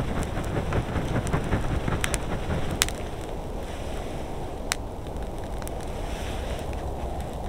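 Wind rumbling on the microphone, with a few sharp cracks or clicks, the loudest about three seconds in.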